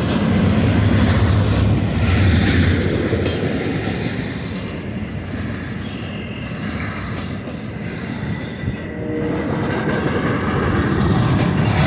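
Freight train rolling past on the main line: a steady rumble of railcar wheels on the rails, loudest in the first few seconds, easing in the middle and building again near the end.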